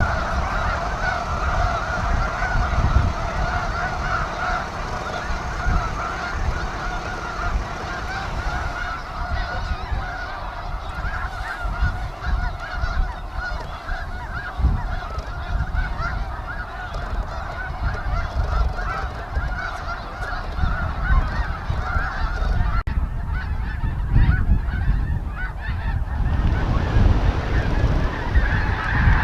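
A large flock of geese calling nonstop, a dense chorus of honks. It thins out a little after about twenty seconds, then swells again near the end.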